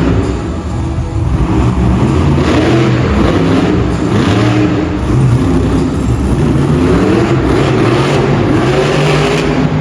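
Monster truck engine revving up and down in a freestyle run, its pitch repeatedly rising and falling.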